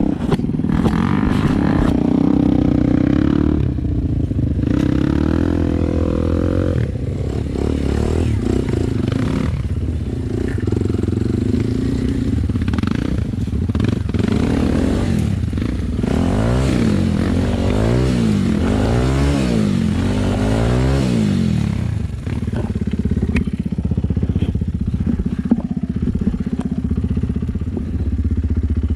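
Dirt-bike engine running under way, its pitch rising and falling about four times in quick succession near the middle as the throttle is worked, then settling to a steadier run.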